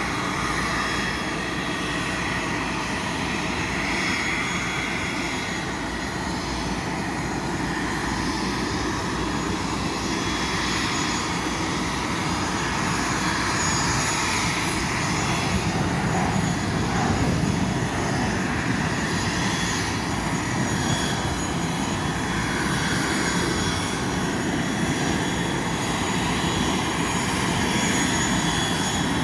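Airbus A320 jet engines running steadily, a continuous, even noise with faint steady high whine tones above it.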